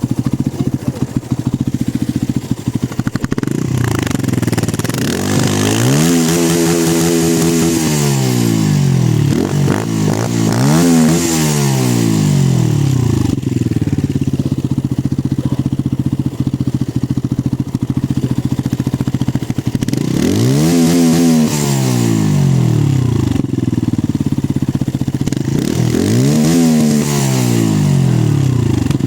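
Benelli 125S motorcycle engine with its stock exhaust, idling and blipped four times; each rev climbs and drops straight back to idle.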